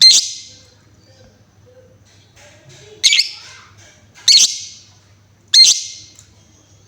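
Female lovebird giving four loud, short, shrill calls, each starting sharply and fading quickly, spaced one to three seconds apart.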